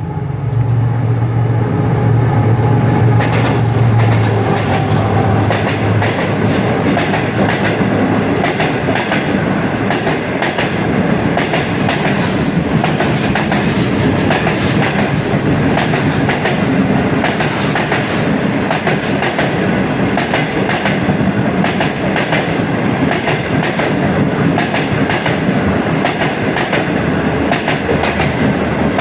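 Pakistan Railways Green Line train passing through without stopping: a steady low engine drone for about the first six seconds, then the coaches rolling by in a continuous loud clatter of wheels over rail joints.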